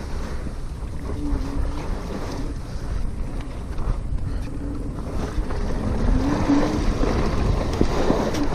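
Wind buffeting the microphone and a steady low rumble while riding a RadMini electric bike, with a faint low whine that rises and falls a few times.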